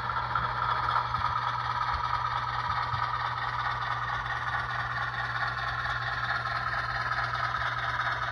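HO scale model train running on the layout: a steady hum with a few faint clicks from the wheels on the track.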